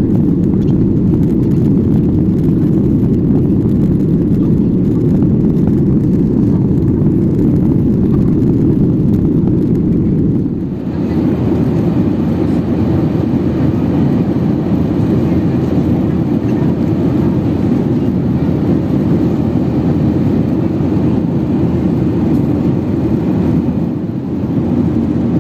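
Steady cabin noise inside a Boeing 737-800, the rumble of its CFM56 engines and the airflow heard from a window seat. About 11 seconds in, the sound dips briefly and then carries more hiss.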